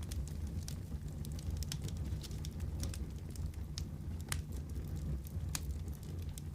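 Fireplace fire crackling: scattered sharp pops, a few of them louder, over a steady low rumble.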